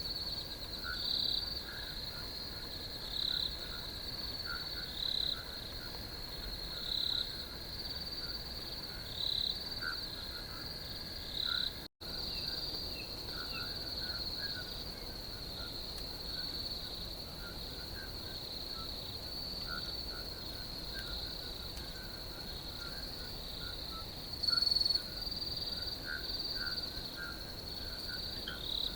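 A chorus of crickets trilling steadily, with a louder chirp repeating about every two seconds for the first dozen seconds and fainter, lower chirps scattered throughout. The sound cuts out for an instant about twelve seconds in, then the chorus resumes.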